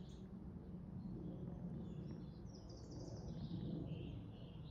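Several songbirds singing in scattered, overlapping high phrases over a steady low rush of wind.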